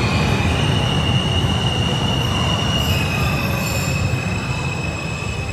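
New York City subway train pulling into a station: a steady rumble of the cars with thin, steady high-pitched wheel squeal, easing off a little as the train slows.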